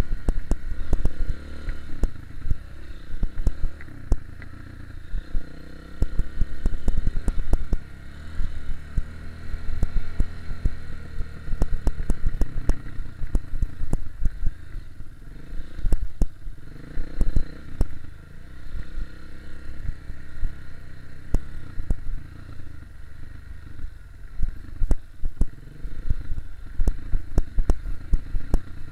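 KTM 250 EXC-F enduro motorcycle's single-cylinder four-stroke engine running under way, its pitch rising and falling with the throttle. Frequent sharp clatter and knocks from the bike going over rough ground sit on top of it.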